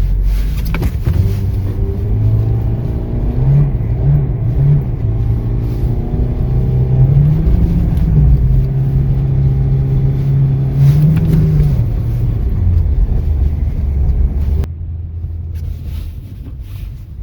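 Volkswagen Jetta's 2.0-litre four-cylinder engine pulling on the road over a steady rumble of tyres, its note climbing and dropping several times with throttle and gear changes. About fifteen seconds in, the sound drops suddenly to a quieter rumble.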